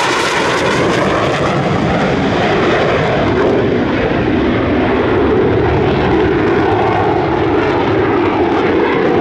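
Jet engines of an RCAF CC-150 Polaris (military Airbus A310) passing low in a flyby, loud and steady, with a slight drop in pitch in the first second or so.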